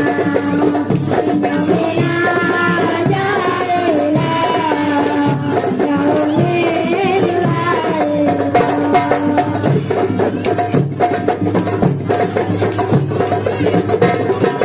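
Marawis ensemble playing: hand drums and frame drums keep a steady, even beat under a sung devotional melody.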